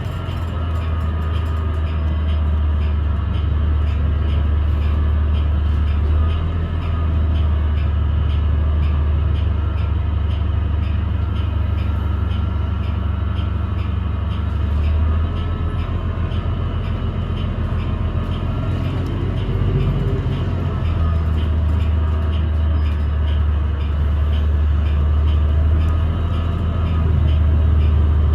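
Interior of a New Flyer XDE40 hybrid diesel-electric bus under way: a loud low drone that steps up and down every few seconds, with fainter steady whining tones and light ticking over it. It is the odd sound that the rider suspects comes from the transmission or a loose screw or panel rather than the engine.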